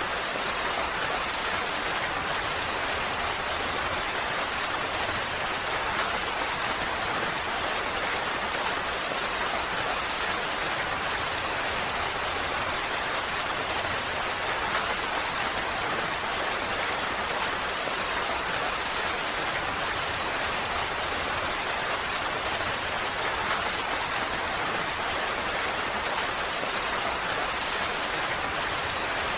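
Steady, even rain falling, a dense hiss with faint scattered drop ticks.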